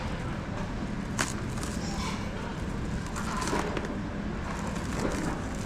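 Street background noise: a steady low rumble with faint distant voices and a sharp click about a second in.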